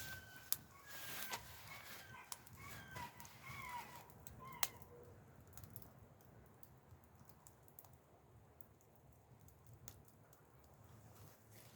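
Faint bird calls, short wavering chirps, during the first few seconds, with scattered sharp clicks throughout over a low steady background.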